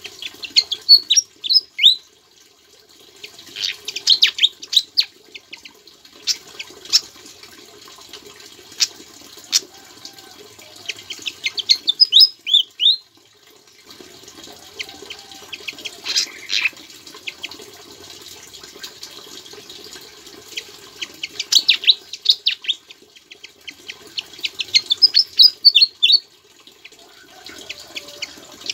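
Sikatan jawa songbird singing in repeated short phrases of quick, high rising and falling notes, with brief pauses between phrases. A continuous rush like running water sounds underneath.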